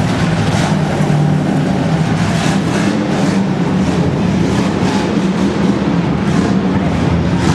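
Truck engine running hard, a steady loud drone with rushing noise that swells and fades every second or so.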